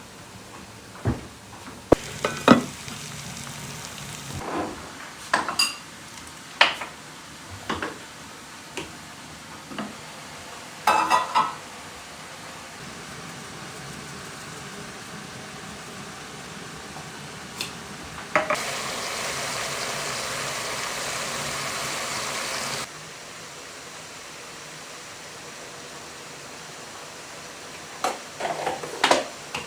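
Food frying in a pan on a wood-burning stove, with a run of sharp clinks and knocks from a utensil against the pan. A louder, even sizzle sets in about two-thirds of the way through and stops abruptly a few seconds later.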